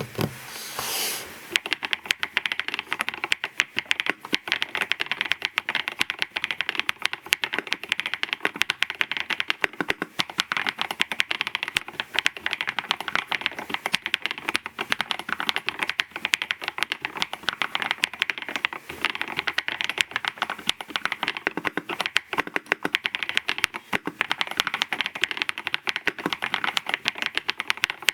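Fast, continuous typing on a NAEessential Vortex 650 mechanical keyboard with Dukharo switches: a dense stream of key clacks.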